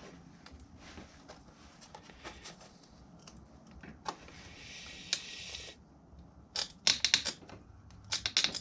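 Scattered sharp clicks and light knocks, with two quick clusters of them near the end, from a plastic 3D-printed pattern plate being pushed and worked loose from packed foundry sand. A hiss lasting about a second comes about halfway through.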